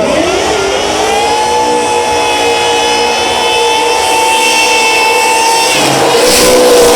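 Supercharged LS V8 burnout car revving up and then held at high, steady revs, the blower whine riding over the engine. The revs dip briefly about six seconds in and climb back.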